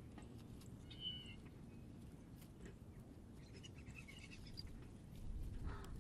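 Small birds calling at a feeder: a short high call about a second in, then a quick cluster of chirps near four seconds, over a steady low outdoor rumble that swells near the end.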